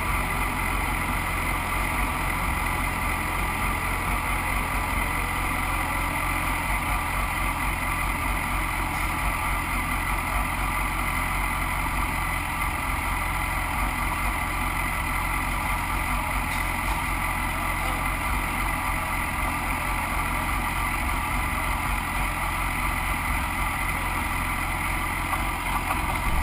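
Engines of BMW Cup race motorcycles in the background as the warm-up lap begins: a steady low engine rumble, with no single bike standing out.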